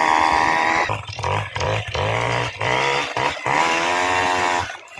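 Tomos moped's two-stroke engine being revved in repeated blips, with short drops in between, on its first run with new piston rings and no break-in.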